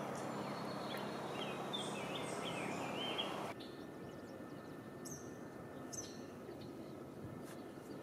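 A songbird singing a run of short warbled notes over outdoor noise with a steady low hum. About three and a half seconds in the sound changes abruptly to quieter outdoor ambience with a few brief high chirps.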